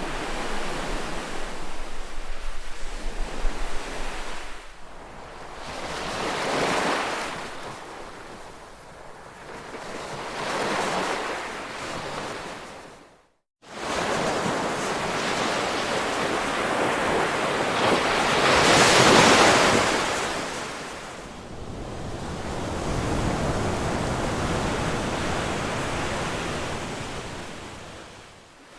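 Ocean waves washing onto a shore in slow surges that swell and fade, the loudest wave about two-thirds of the way in. The sound cuts out to silence for a split second about halfway through.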